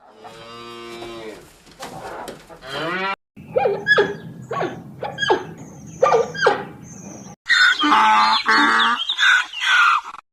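A string of farm-animal calls, cut one straight after another. It opens with a cow mooing, followed by a run of about six short, sharp, falling cries and then a loud burst of calls from another animal.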